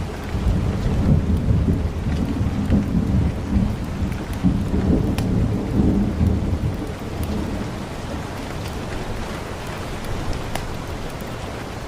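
Steady rain with scattered drop ticks and a deep rumble that swells and surges over the first seven seconds or so, then settles into a steadier hiss.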